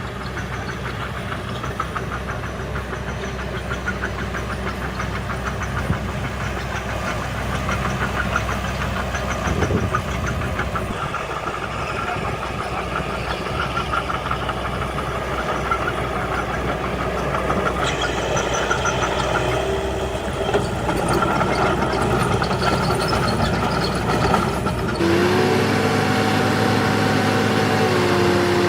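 Diesel engines of heavy earthmoving machines, a bulldozer and dump trucks, running steadily at work with a knocking clatter. The sound changes abruptly several times. Near the end a steadier engine note with a clear pitch takes over and shifts up and down.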